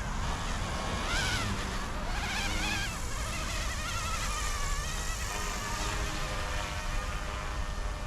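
Micro RC helicopter's direct-drive brushless motors whining as it is flown, the pitch swooping up and down over and over as the throttle and head speed change, over a low rumble.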